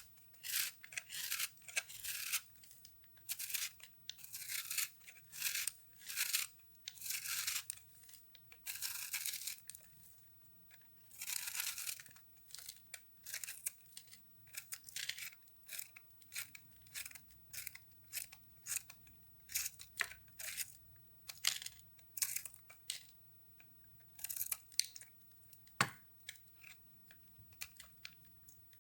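Microwaved soap being cut and crushed: a long run of separate scraping, crunching strokes, each lasting from a fraction of a second to about a second and a half, with short pauses between.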